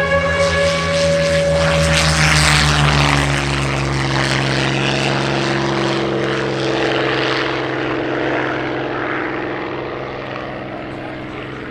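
Piston-engined, propeller-driven warbird flying past. The engine is loudest about two seconds in, then its note drops in pitch and fades as the aircraft moves away.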